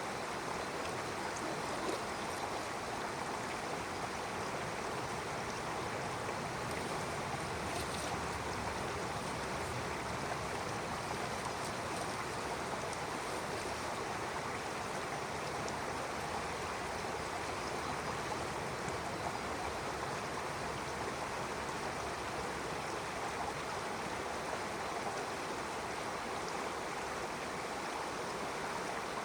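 Stream water flowing and splashing in a steady, even rush, with a faint steady high-pitched drone of cicadas behind it.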